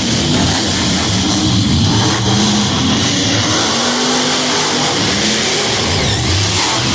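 Monster truck engine revving up and down, its pitch rising and falling repeatedly.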